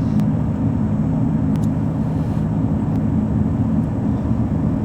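Steady low rumble of a vehicle's engine and road noise while driving along, heard from inside the vehicle.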